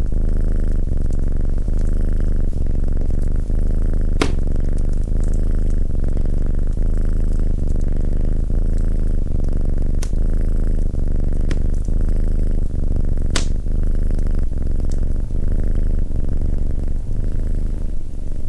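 Domestic cat purring close to the microphone, a continuous low rumble. A handful of sharp crackles from a wood fire cut through it.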